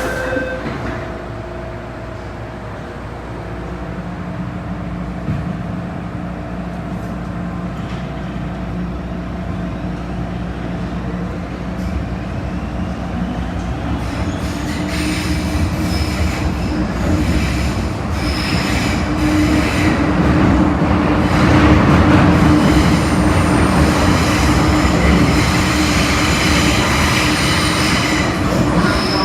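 MTR Kwun Tong line M-Train pulling away and gathering speed: a faint rising motor whine over a steady hum, then wheel and rail noise growing louder, with high-pitched wheel squeal from about halfway on.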